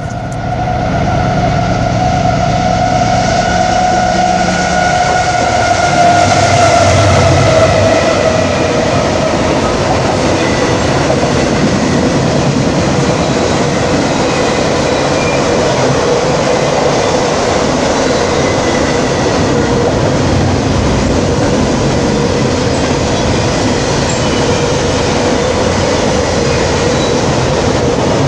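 A train rolling past close by: a loud, steady rumble of wheels on rail. A pitched tone slides down in pitch over the first several seconds as the train goes by.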